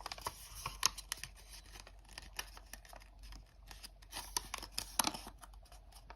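Origami paper being folded and creased by hand: an irregular run of small crisp crinkles and taps, a few sharper ones about a second in and near the five-second mark.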